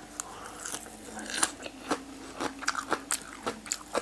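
Close-miked chewing of a crunchy mouthful of boiled pig ear and fresh Thai basil leaves: irregular crisp crunches, a few per second.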